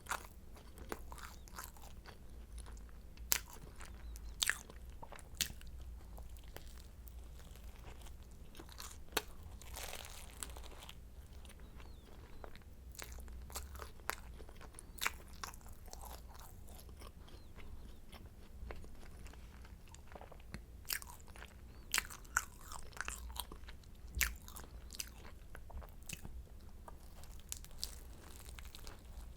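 Flaky croissant being bitten and chewed close to the microphone: irregular sharp crackles of the crisp pastry layers breaking, with softer chewing between them.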